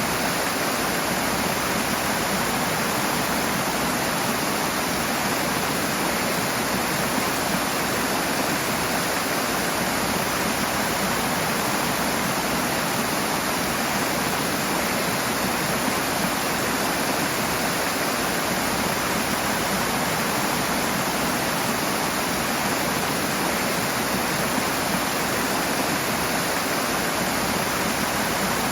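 Rushing water: a strong, steady rush of a fast stream or small waterfall.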